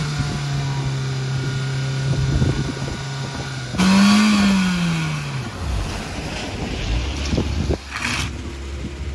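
Nissan Micra's engine held at steady high revs, then flaring higher about four seconds in and falling away as the car pulls off along the wet road. A lower engine hum with road and water noise follows.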